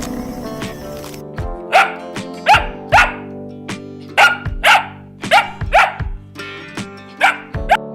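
A dog barking about ten times in short, sharp barks at uneven intervals over steady background music.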